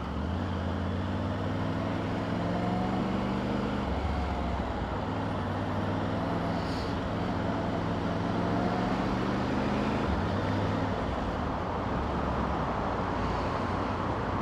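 Motorcycle engine running under way, its pitch rising and falling several times as the rider changes speed. Wind and road noise sit over it.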